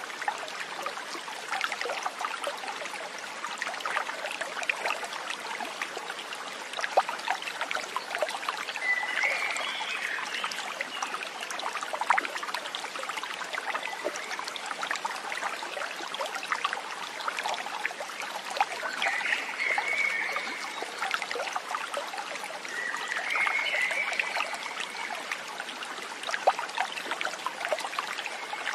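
Stream water trickling and splashing over stones, a steady crackling patter. Three brief high chirps break in about a third of the way in, two-thirds of the way in and again shortly after.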